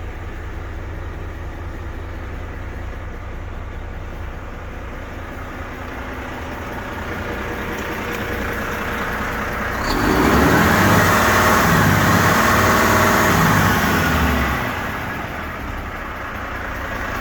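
Renault Premium 460 tractor unit's diesel engine idling, then revved: the engine speed creeps up from about six seconds in, climbs sharply near ten seconds, holds high for about four seconds, and drops back to idle.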